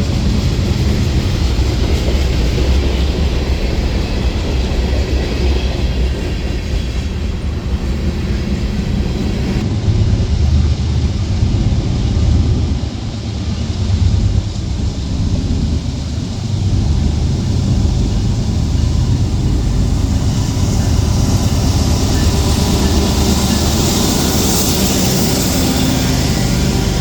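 Train passing: a steady, loud rumble of wheels on rail, with a brighter hiss swelling near the end.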